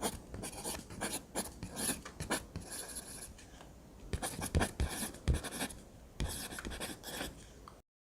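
A drawing tool scratching on paper in quick, repeated strokes of varying strength. The sound stops abruptly near the end.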